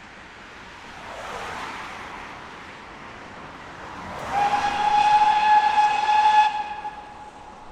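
Steam locomotive whistle giving one long steady blast of about two seconds, starting about four seconds in. It is preceded by a rush of hissing noise.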